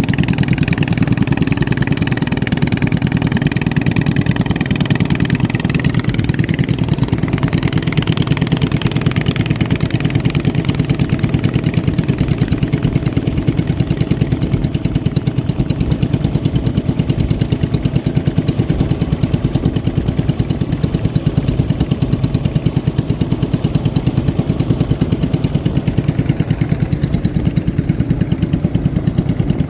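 Racing boat engines running steadily at high revs. In the first seven seconds or so a second, higher-pitched engine whine climbs in pitch and then fades.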